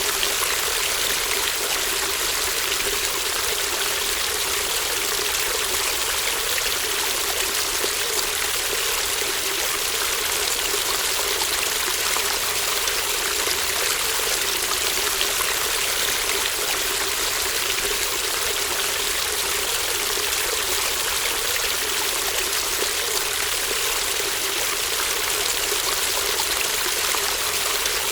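Babbling brook flowing steadily, an even, unbroken rush of running water.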